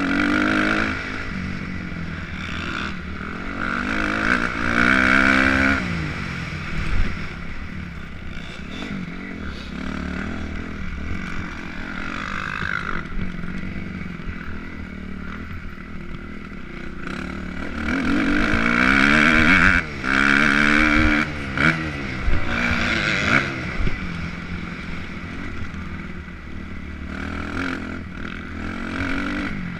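Motocross dirt bike engine revving, its pitch climbing and falling repeatedly as the rider opens and closes the throttle and shifts, loudest in two spells, around the fifth second and again about two-thirds of the way through.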